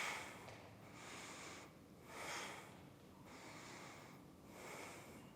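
Faint breathing of a woman holding a standing yoga balance, a series of soft breaths in and out, each about a second long.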